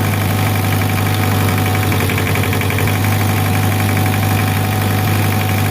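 Nissan BD30 four-cylinder diesel running steadily, now firing after its injection pump has been refitted and the air bled from the fuel.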